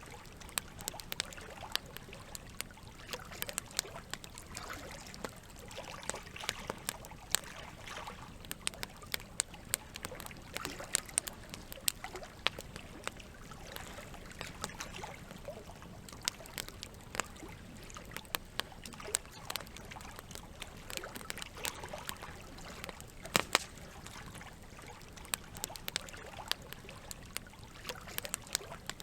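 Campfire wood crackling with irregular sharp pops, a few much louder than the rest, over a steady trickle of running water.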